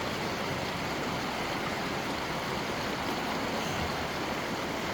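Stream of running water flowing steadily, an even wash of water noise.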